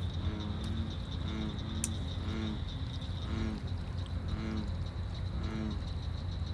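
An animal gives a short, low call about once a second in an even series. A steady high-pitched trill runs beneath it.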